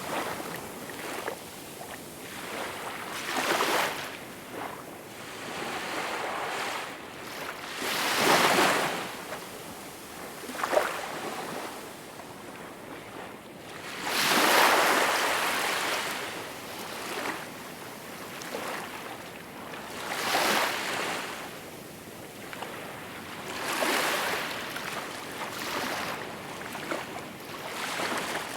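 Small waves washing onto a shore, each one a rush of water noise that swells and falls away every four to six seconds, with a brief sharp splash about eleven seconds in.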